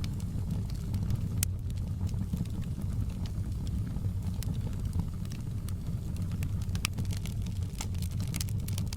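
Wood fire crackling: scattered sharp pops and snaps, a few bunched together near the end, over a steady low rumble of the burning fire.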